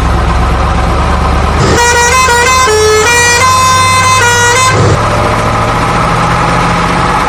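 Electronic sound effects from a battery-powered toy construction vehicle: a loud, steady engine-like rumble, with a short tune of stepping electronic beeps about two seconds in that lasts about three seconds.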